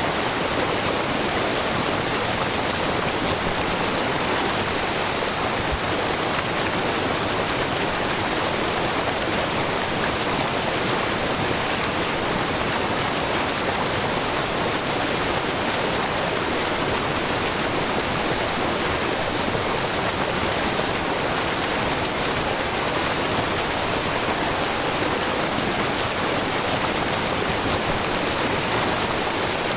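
Shiraito Falls, a wide, low waterfall of spring water falling in many thin streams over a rock face, running with a steady, even rush of water that carries well into the high pitches.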